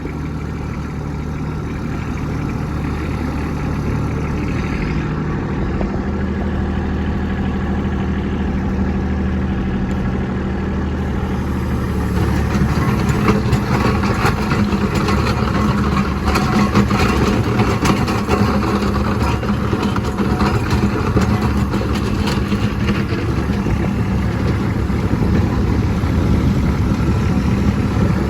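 Kubota B2601 compact tractor's diesel engine running steadily under load while plowing snow. It grows louder about twelve seconds in, with a rougher, noisier edge.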